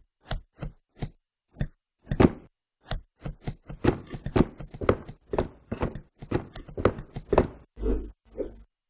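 A quick, irregular run of sharp knocks and taps, about two dozen in all, bunching closer together in the second half.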